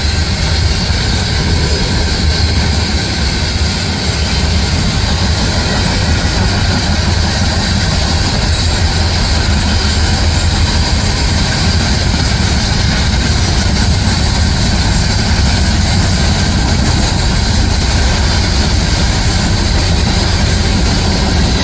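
Loram SBC-20 shoulder ballast cleaner working on the track: a loud, steady heavy-engine drone with a continuous hiss and a high steady whine above it.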